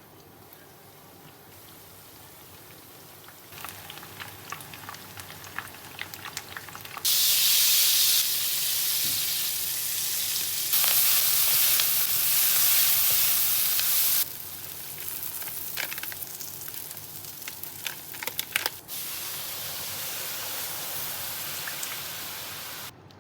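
Food frying in hot oil in a pan: a steady sizzling hiss with scattered crackles. It is loudest for several seconds in the middle and changes level abruptly a few times.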